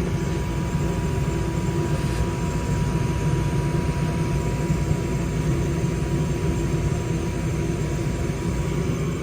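Old Goodman gas furnace running with its blower on: a steady low drone of moving air and motor hum, with a thin, faint whine that fades out about six seconds in.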